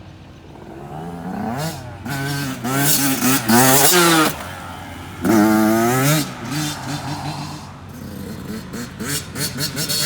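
Dirt bike engine revving hard, its pitch climbing and falling over and over as the throttle is worked, then a quick run of short throttle blips near the end.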